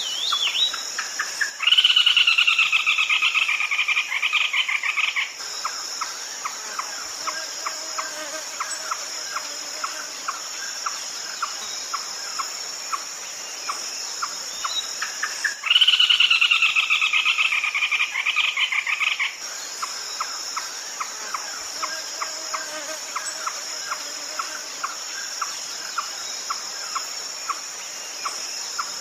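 Red-legged crake calling: a loud rapid series of notes that falls slightly in pitch, lasting about three and a half seconds, given twice about fourteen seconds apart. Under it run a steady high insect drone and an even ticking about three times a second.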